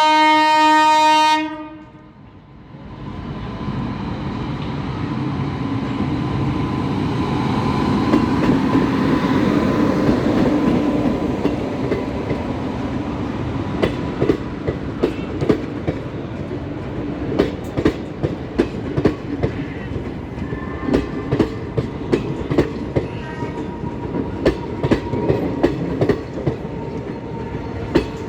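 Express train's horn sounding loudly, several notes held together, cutting off about a second and a half in. Then the train's running noise builds over several seconds as it passes, followed by a steady run of wheel clicks, clickety-clack, as the ICF coaches roll over the rail joints.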